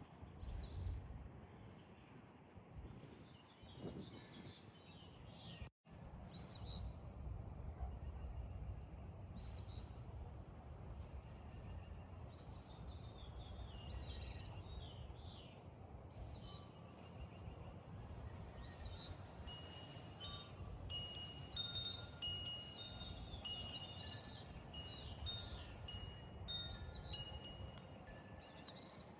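Outdoor birdsong: short arched chirps repeated every second or two, joined in the second half by short, clear, high whistled notes, over a low steady rumble.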